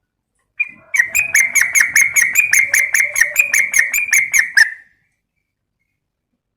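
Yellow-vented bulbul (trucukan) calling: a fast run of short, evenly repeated notes, about five a second for nearly four seconds, then stopping. The uploader labels it a female calling to a male.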